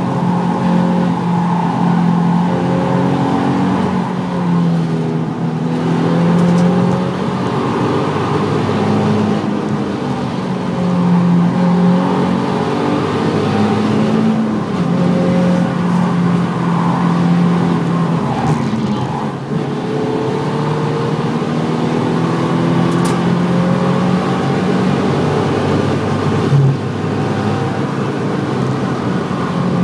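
Nissan 350Z's 3.5-litre V6 engine heard from inside the cabin while lapping at speed, the revs climbing and dropping again every few seconds, over steady tyre and road noise.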